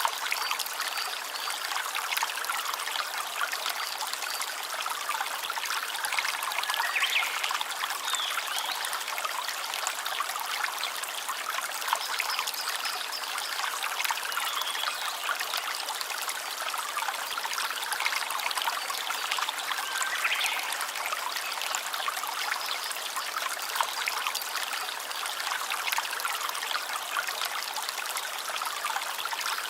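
A stream of water flowing and trickling steadily, an even rushing with no pause.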